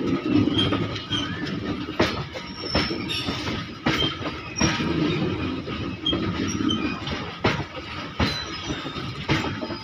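A freight train of open steel wagons rolling past at close range: the wheels rumble and clack over rail joints, with sharp knocks every second or two and brief high wheel squeaks.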